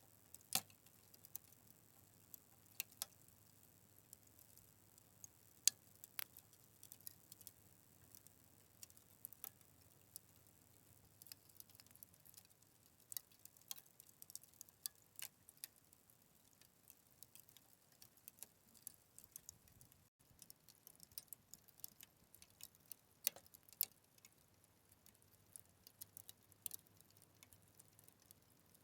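Fire crackling: sharp, irregular pops and snaps, a few every second, with a louder snap about six seconds in.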